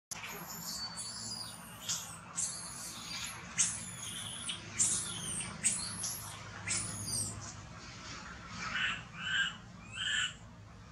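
Birdsong: a bird repeats high, arching whistled notes about once a second, then gives a few lower, quicker chirps near the end.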